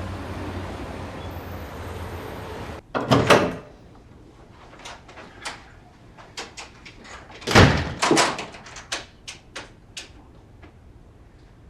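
A door being opened and shut: two loud bangs, about three seconds in and again near eight seconds, with smaller knocks and clicks around them. They follow a few seconds of steady hiss.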